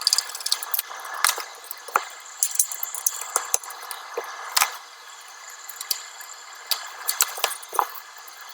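Irregular small clicks and taps, a dozen or so at uneven intervals: metal parts and tools being handled while a car amplifier is put back together.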